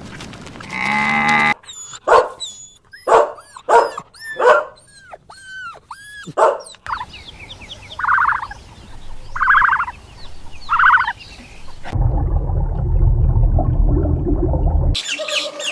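Animal calls in several separate clips: a run of short, arching whining calls about twice a second, then three rasping calls, then a low, rough rumbling noise.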